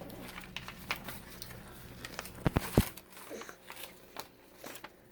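Handling noise: scattered clicks and rustling, with three sharp knocks in quick succession about two and a half seconds in.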